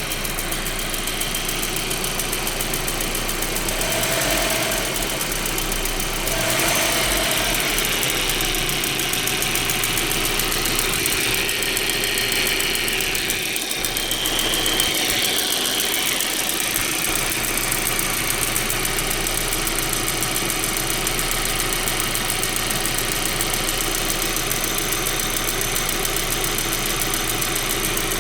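A VW/Audi 1.8T turbocharged four-cylinder engine idling steadily, with a fast, even ticking running through the sound. This ticking is the noise the engine is being checked for.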